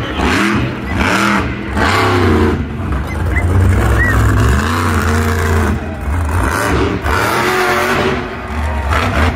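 Monster truck engine revving loudly in repeated blips, its pitch rising and falling over and over.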